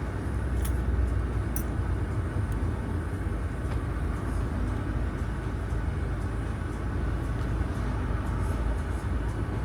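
Steady low rumble of a Chevy Equinox heard from inside the cabin, with engine and road noise and a few faint ticks.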